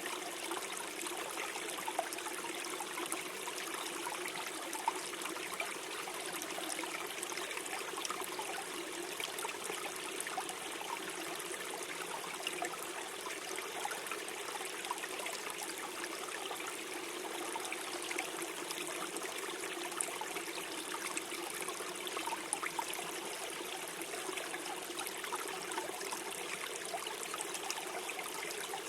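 A small stream running and gurgling steadily over stones, with many small splashes and trickles.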